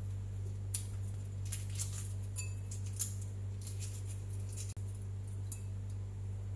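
Scattered light clicks and taps of kitchen utensils against dishes and containers, one of them a brief ringing clink about two and a half seconds in, over a steady low hum.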